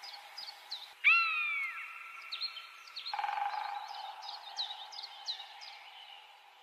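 Birds calling: a run of short, quick chirps throughout, and about a second in a louder, clear call that falls in pitch, over a faint steady drone.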